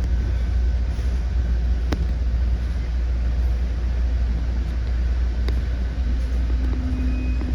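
Ride inside a moving commuter train: a steady low rumble of the train running on the rails, with a few sharp clicks.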